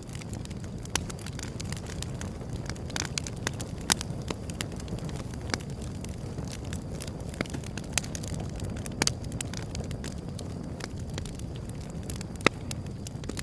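Wood fire burning: a steady low rush with sharp crackles and pops at irregular intervals, the loudest pop near the end.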